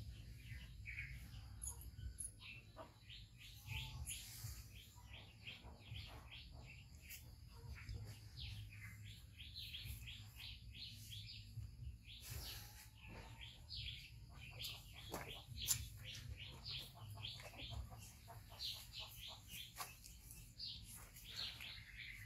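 Small birds chirping faintly and repeatedly in quick runs of short notes, over a low steady hum.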